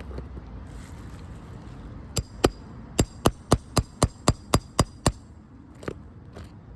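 Light, sharp taps on an old, brittle 3-tab asphalt roof shingle, a quick run of about a dozen at roughly four a second, then two fainter ones. The tapping tests how brittle the shingle is and knocks its granules loose.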